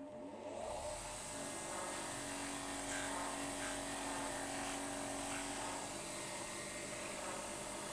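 A small electric motor, of the kind in a handheld power tool, starts up, rises in pitch over about a second, then runs steadily.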